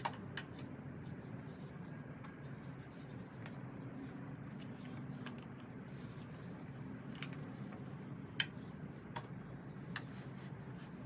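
Faint scattered clicks and scratching from hands and tools handling motorcycle parts, with one sharper click about eight seconds in, over a low steady hum.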